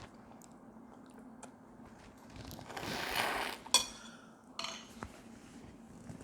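Close-up eating sounds: quiet chewing and small clicks, a rushing noise lasting about a second near the middle, then one sharp clink of a utensil against a dish right after it.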